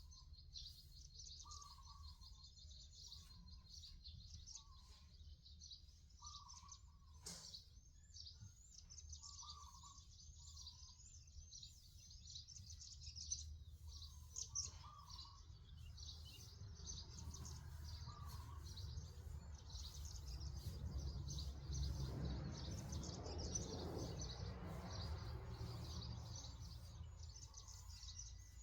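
Many birds chirping continuously, with short calls repeating every second or so in the first half. In the second half a rushing noise swells, peaks and fades away.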